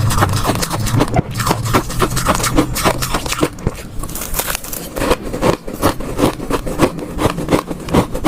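Ice cubes being bitten and chewed close to the microphone: a fast, irregular run of sharp crunches, several a second.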